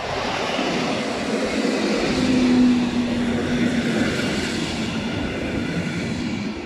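Electric multiple-unit passenger trains passing close by, their wheels rumbling steadily on the rails. A steady low hum joins in from about two to four seconds in, when the sound is loudest.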